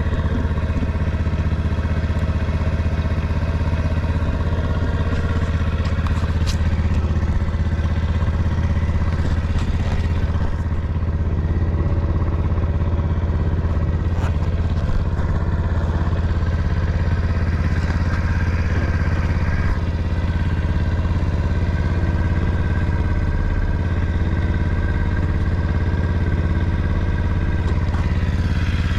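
Early Honda Motra's 49 cc four-stroke single-cylinder engine idling steadily and evenly. It runs quietly, with no unusual noises.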